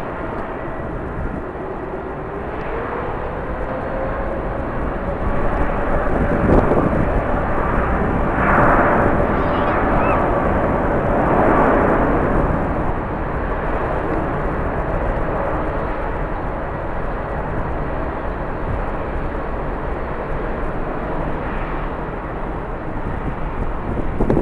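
Jet airliner engines running with a steady whine over a broad roar, growing louder in the middle and easing off again.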